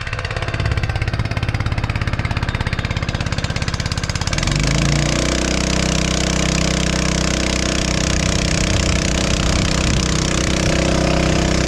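An engine running with a fast, even pulsing beat. About four seconds in, it rises in pitch and settles into a steady, smoother note.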